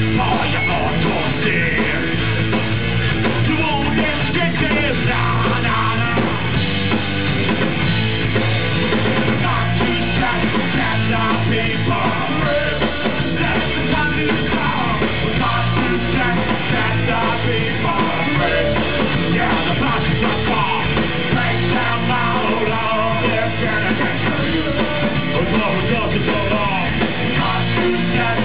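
Punk rock band playing live: drum kit and electric guitars at full volume, with yelled vocals over them.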